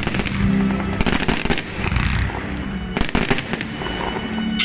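Fireworks going off: clusters of rapid crackling bangs, about a second in and again about three seconds in, over the continuous hiss of sparking fountains.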